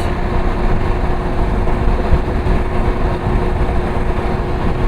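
Motorcycle running at road speed, a steady engine drone under heavy wind rush.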